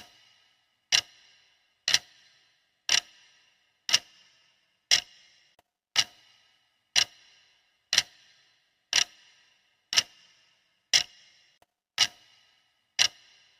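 Clock ticking steadily, one sharp tick a second with a short ringing decay after each: a countdown timer's ticking sound effect.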